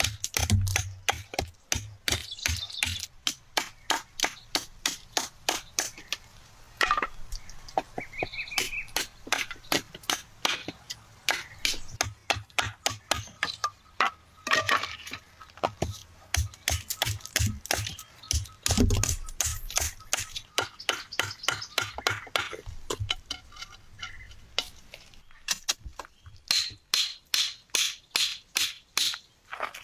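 Repeated sharp knocks and cracks, often two to four a second, with a few short pauses: something being struck or chopped over and over.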